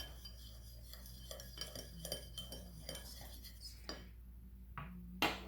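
A spoon stirring beaten egg yolk in a bowl, with faint light clinks and scrapes of metal on the bowl and a couple of louder knocks near the end.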